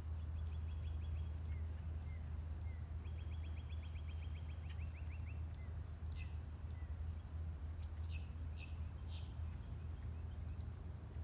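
Small birds chirping and trilling, faint, over a steady low rumble. The trills come in the first second and again from about three to five seconds in, and sharper chirps follow near six seconds and twice more later on.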